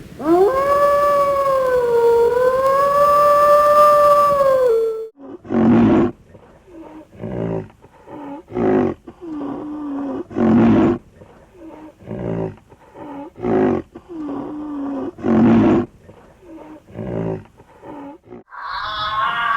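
Wild animal calls: a long, wavering howl-like cry lasting about five seconds, then a series of short, loud roaring grunts repeated every second or two.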